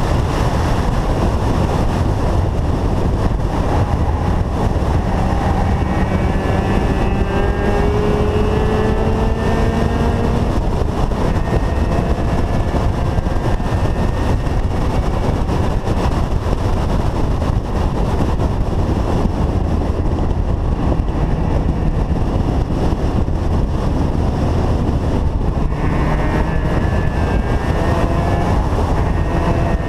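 Mazda RX-7 rotary engine pulling hard on a racing circuit. Its pitch climbs slowly as revs build from about 6 to 10 seconds in, then falls away, and climbs again near the end.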